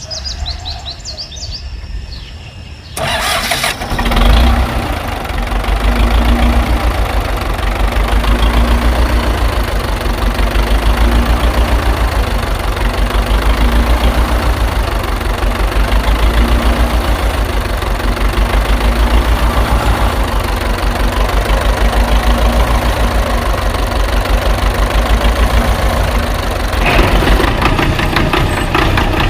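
An engine starts about three seconds in and then runs steadily with a loud, low, regular chug.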